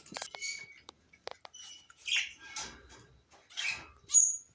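Small cage birds chirping and squeaking in short, scattered calls, with a few light clicks about a second in and a sharp, high chirp near the end.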